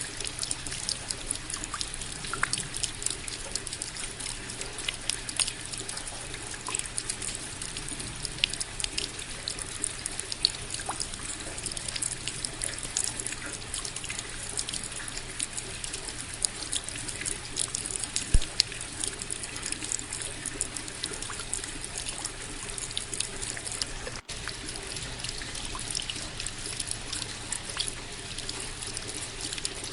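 Steady rain with many individual drops pattering and dripping, and a running trickle of water underneath. The sound cuts out for an instant about 24 seconds in.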